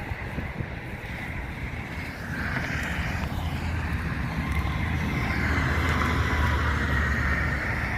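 Semi-truck on the road: steady low engine rumble with road and wind noise, growing louder about two seconds in.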